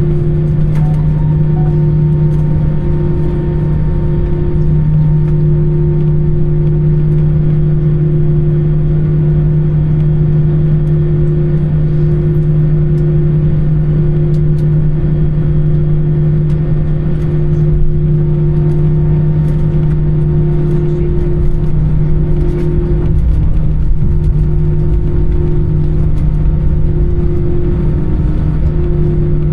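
Airbus A320 cabin noise: a steady engine drone of two constant tones over a continuous low rumble, with a few faint ticks.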